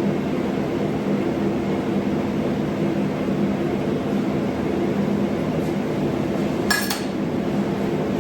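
Steady machine hum, as of a fan or motor running in a workshop, with a single short metallic clink about seven seconds in, as of a metal part being set down or tapped.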